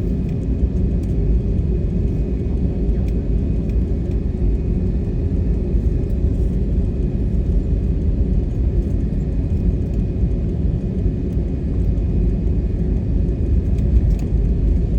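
Steady low engine rumble with a faint high-pitched whine held above it.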